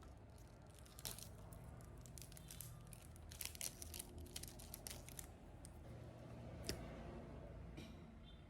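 Faint crinkling and rustling from something being handled, a cluster of crisp crackles in the first half, then a single sharp click.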